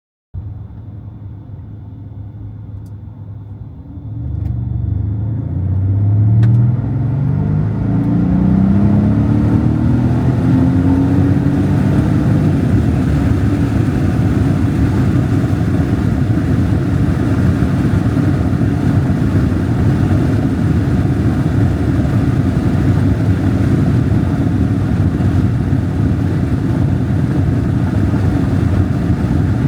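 Mercedes SL500's V8 engine running at low load, then put under hard acceleration about four seconds in, its pitch climbing for several seconds. After that it settles into a steady loud run at speed.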